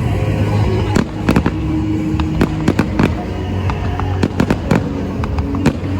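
Festival fireworks display: from about a second in, a rapid, irregular run of sharp cracks and bangs from bursting shells, over a steady low rumble.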